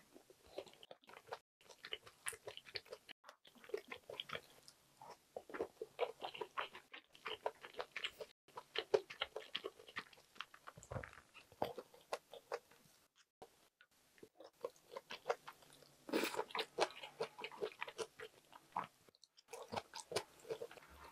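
Close-miked eating sounds: a person chewing rice and Korean side dishes, with quick repeated wet smacks and crunchy bites, and a louder run of crunching about two-thirds of the way through.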